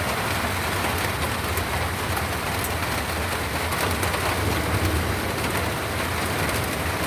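Torrential rain pouring down steadily, a dense even hiss dotted with scattered sharp ticks of drops.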